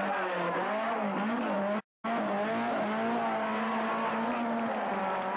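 Rally car engine revving hard at high revs, its note rising and falling as the car is driven through the bends. The sound drops out completely for a moment about two seconds in.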